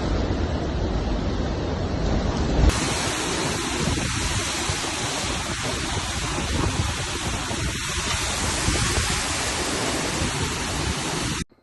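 Hurricane wind and rain buffeting the microphone as a steady rushing noise. The sound changes abruptly about two and a half seconds in, as one recording gives way to another, and it cuts off suddenly at the end.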